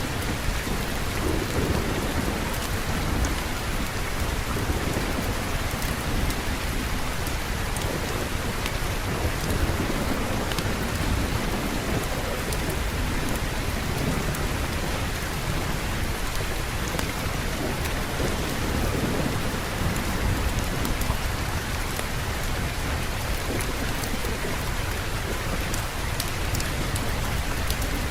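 Steady heavy rain falling, with low rolling thunder rumbling underneath in slow swells.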